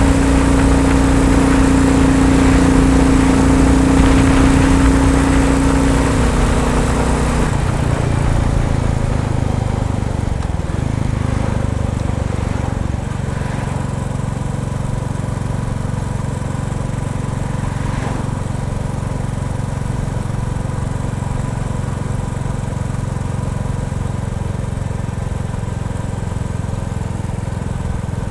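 Royal Enfield Bullet 350 single-cylinder engine running steadily under load, then easing off about seven seconds in and settling to a lower, quieter steady note. The owner hears a wooden rattle or buzz in time with the firing under load at certain revs, which other owners call normal for a Bullet not yet run in.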